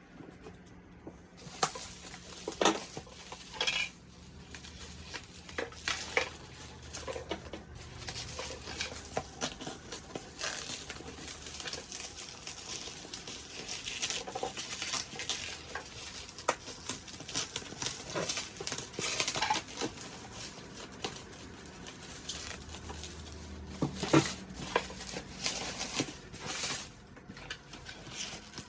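Packaging being handled and opened: a string of rustles, scrapes and small knocks, with a few sharper knocks, about three seconds in and again near the end.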